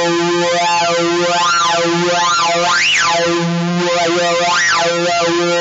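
Sound Lab Plus analog synthesizer playing a steady hard-synced tone, its upper overtones sweeping up and down a little more than once a second. This is oscillator 2 hard-synced to oscillator 1, with its pitch swept by the low-frequency oscillator, giving the typical hard-sync timbre.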